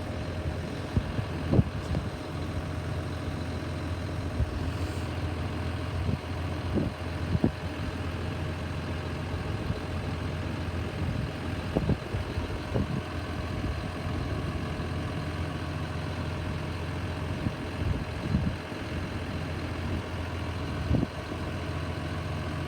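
Steady low engine hum of an idling vehicle, with a few short knocks scattered through it.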